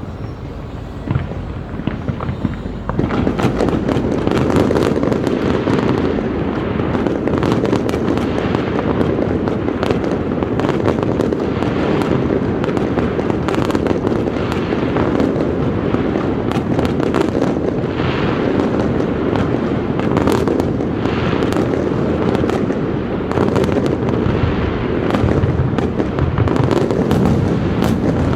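Large aerial fireworks display going off in a dense, unbroken barrage of bangs and crackles. It swells sharply about three seconds in.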